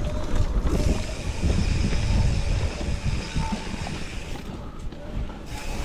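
Mountain bike riding down a rain-wet dirt trail: an uneven rumble and rattle of tyres and frame over the ground, with wind on the microphone.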